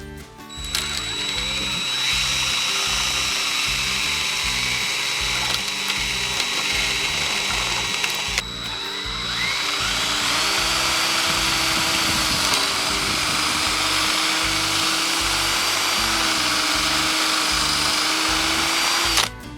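Power drill running as it bores holes into wood, in two long runs with a short pause about eight seconds in.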